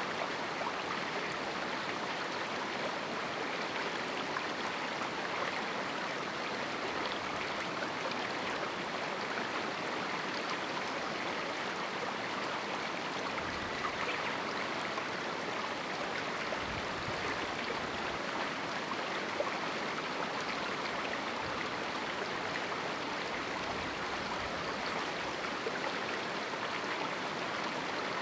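A river running through a small canyon: a steady rush of flowing water over rocks.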